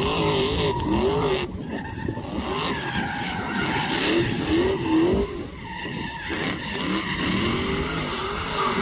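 A drift car's engine at high revs, the pitch rising and falling again and again as the throttle is worked, over the hiss and squeal of tyres sliding sideways.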